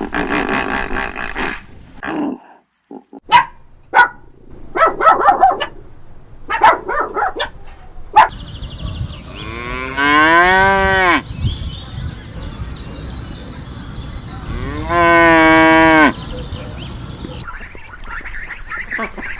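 A cow mooing twice: two long calls about five seconds apart, each rising then falling in pitch. Before them come a string of short, sharp calls and clicks.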